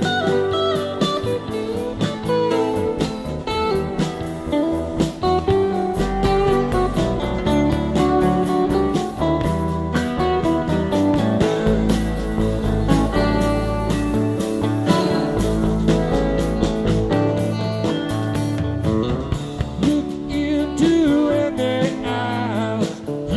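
Rock band playing an instrumental passage between verses: a gliding guitar lead over bass guitar and drums.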